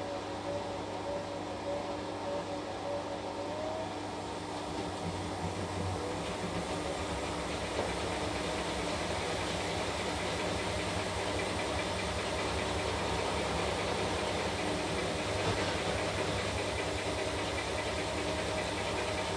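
Washing machine running: a steady motor hum with a rattling vibration that grows a little louder about seven seconds in.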